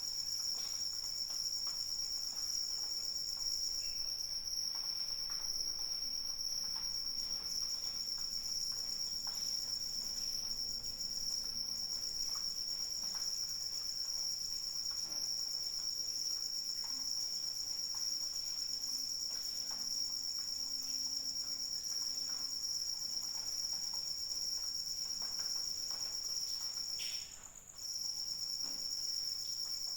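Crickets chirring in a steady, high-pitched trill that breaks off briefly near the end, with faint scattered ticks beneath.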